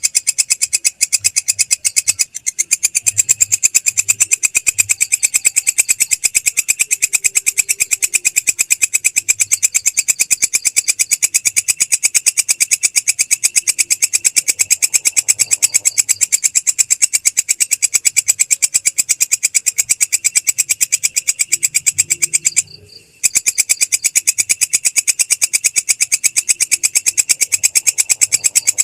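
Belalang krek, a singing insect, calling in a fast, even train of rasping pulses that runs on steadily, with a short break about 23 seconds in.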